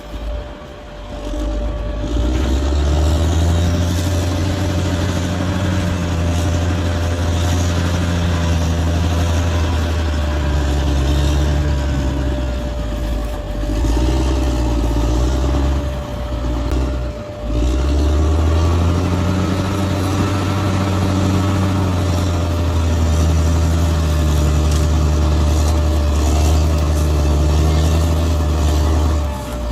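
Large bulldozer's diesel engine working hard, its pitch rising and falling with the load. The engine sound dips briefly about halfway through, then builds back up.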